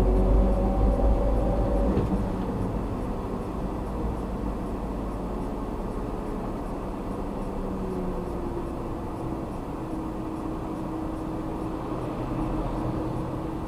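A car's engine and tyre road noise picked up inside the car by a dashboard camera while driving. It is louder for the first two seconds, then settles to a quieter, steady run, with the engine note shifting in pitch.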